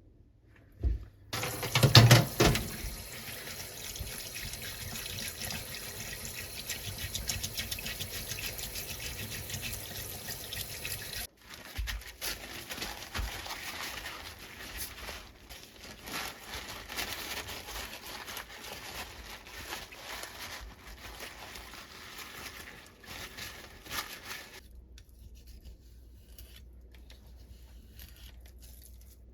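Water from a kitchen tap running into a sink with a steady splashing hiss, as something is rinsed under it. It starts with a loud splash, breaks off briefly partway through, and is shut off near the end, leaving faint clicks.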